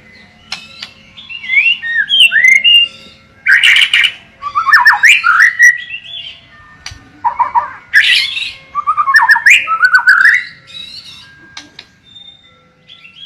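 White-rumped shama (murai batu) singing loudly: varied phrases of rising and falling whistles and quick chattering trills, in two long runs with a short break in the middle, tailing off near the end.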